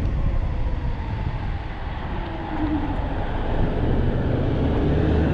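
Wind rumbling on the microphone and road noise while riding an e-bike along a street; a low steady hum joins about three and a half seconds in and grows slightly louder.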